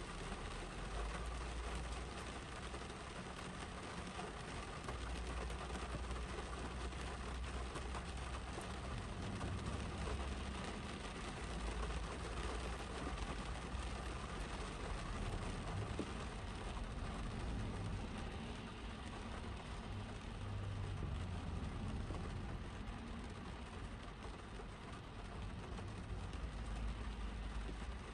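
Steady rain falling on a car's roof and windshield, heard from inside the cabin, with passing cars on the wet road adding a low rumble that swells and fades.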